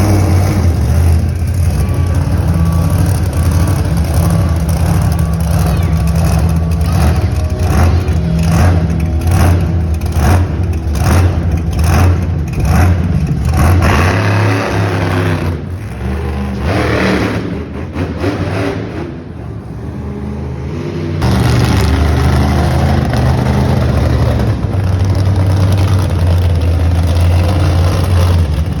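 Monster truck engine running loud with a deep drone, revved in a run of short throttle pulses partway through. It falls quieter for a few seconds and then comes back loud near the end.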